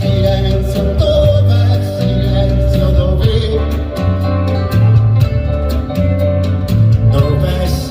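Live band music: bass and drums keep a steady beat under a melodic line, with no sung words.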